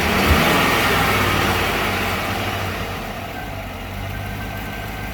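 Truck engine idling steadily, no longer making the little ticking sound it had, which the owner puts down to a bad wire that has now been replaced.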